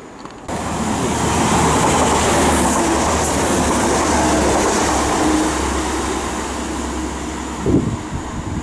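Class 185 three-car diesel multiple unit passing through the station at speed, its loud rush of engine and rail noise with a steady engine hum starting abruptly about half a second in and easing as it draws away. A brief thump near the end.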